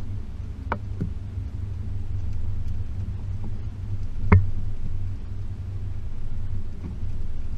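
Low, steady rumble of a Range Rover P38's 4.0 V8 driving slowly off-road, with three sharp knocks: two close together about a second in, and the loudest about four seconds in.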